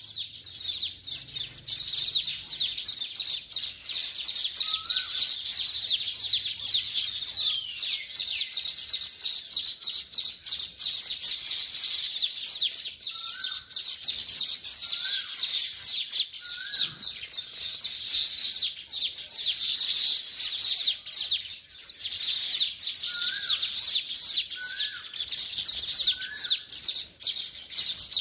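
Many small birds chirping and twittering continuously, a dense overlapping chatter of quick high chirps like a flock. A lower, short call from another bird cuts through now and then, about seven times.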